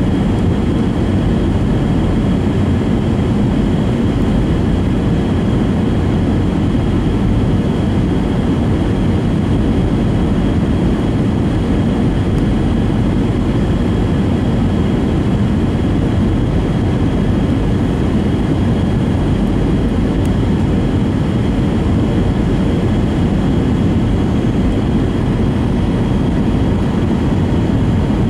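Steady in-flight cabin noise of an Airbus A320, a deep even rush of airflow and IAE V2500 engines heard from inside the cabin.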